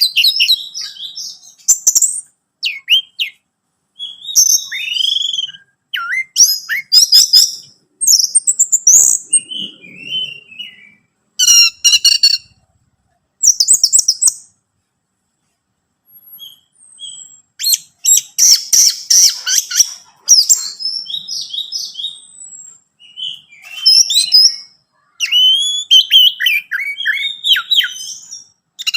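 Orange-headed thrush (anis merah) singing: loud, varied phrases of whistles and rapid trills, broken by short pauses.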